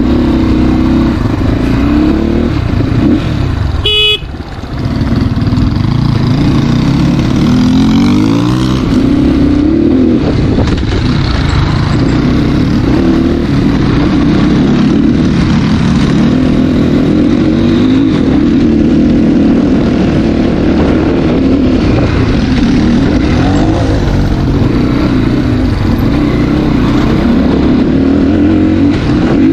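CrossFire dirt bike engine running under way, its revs rising and falling with the throttle. A short horn beep about four seconds in.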